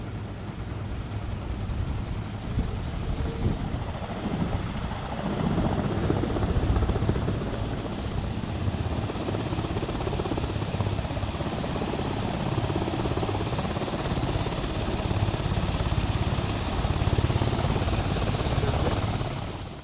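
Propeller of an all-electric demonstrator aircraft turning on its WEG electric motor during a static ground run, a steady propeller noise with a low throb. It gets louder about five seconds in and cuts off abruptly at the end.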